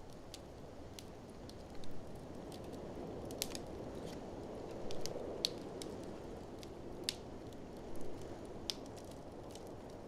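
Wood fire in a fireplace crackling, with irregular sharp pops and snaps, over a steady rush of blizzard wind.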